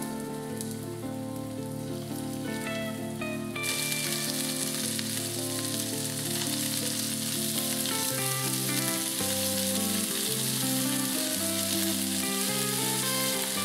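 Pieces of meat sizzling as they fry in hot oil in a frying pan. The sizzle grows much louder about three and a half seconds in, over background music.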